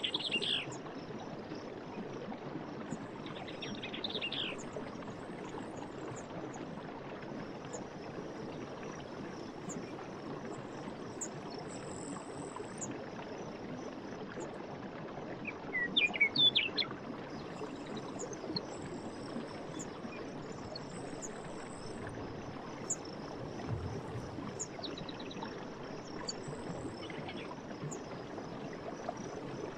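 Forest stream running steadily, with songbirds calling now and then, loudest a little past halfway, over a steady high insect chirring.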